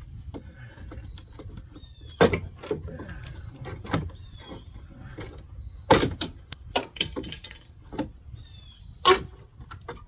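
Wall demolition on wood framing: irregular knocks, cracks and rattles as old boards and nails are struck and pried loose, with three or four loud strikes among them.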